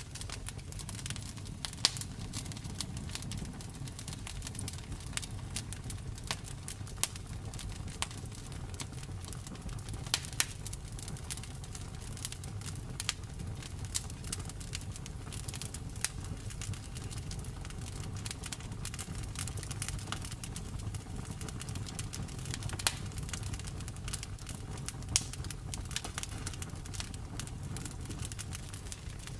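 Wood fire in a fireplace crackling: a steady low rumble of the flames with frequent irregular sharp pops and snaps.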